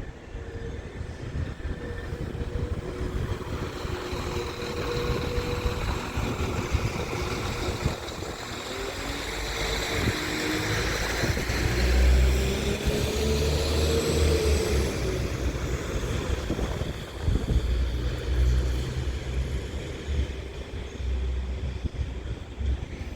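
Northern Class 195 diesel multiple unit's engines running and pulling away, with a whine that rises in pitch around the middle and a heavy low rumble from about halfway on.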